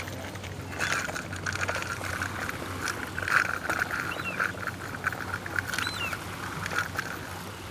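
Outdoor ambience: birds calling in a few short chirps, with a stretch of rougher chattering calls in the middle, over a low steady hum.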